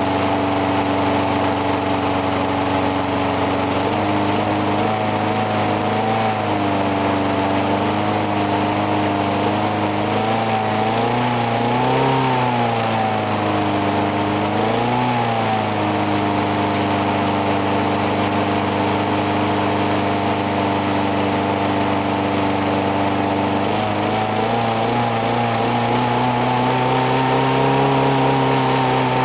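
4 hp Briggs & Stratton lawn mower engine running after a cold start, its speed hunting: it holds steady, then wavers and surges up and back down several times, climbing highest near the end before dropping back. The owner believes there is water in the gas.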